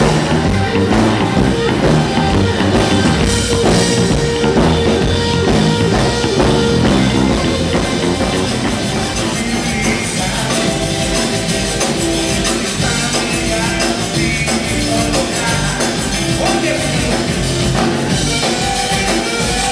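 Live blues band playing an instrumental passage, led by a drum kit, at a steady level.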